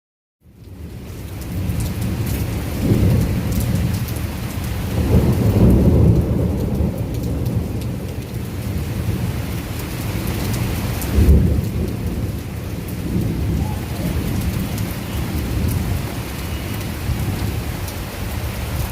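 Heavy tropical downpour with thunder rumbling through it, the rumble swelling a few times and breaking into a sharper clap about eleven seconds in.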